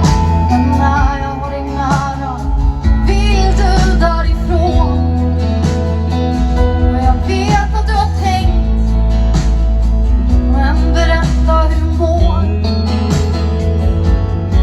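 Live pop song performed by a band: a woman singing the melody over guitar and a heavy, booming bass.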